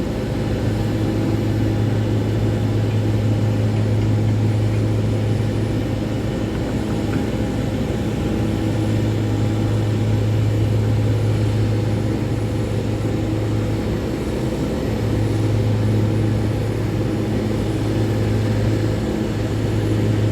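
Steady low engine drone with a strong hum, easing off briefly a few times.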